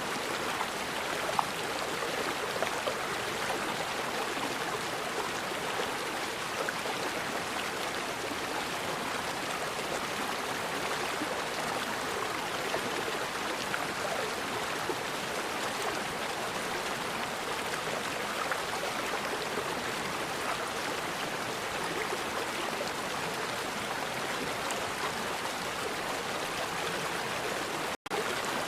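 Forest river flowing steadily, an even rush of water over its bed, broken by a split-second dropout near the end.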